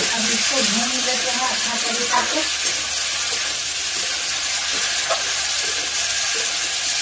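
Raw banana pieces sizzling steadily as they fry in oil in a steel kadhai, stirred with a metal spatula that scrapes the pan now and then.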